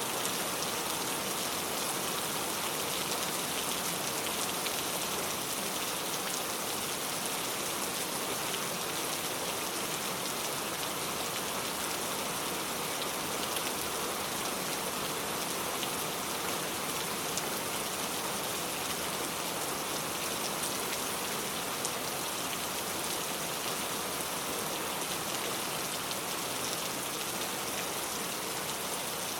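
Steady rainfall, a dense even hiss of drops with faint individual drop ticks.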